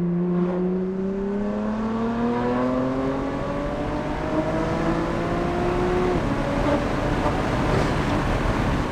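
BMW S55 twin-turbo straight-six through an equal-length titanium valved exhaust with 200-cell downpipes, accelerating hard: the pitch drops at an upshift right at the start, climbs steadily for about six seconds, and drops at a second upshift, after which the note is buried in more wind and road noise.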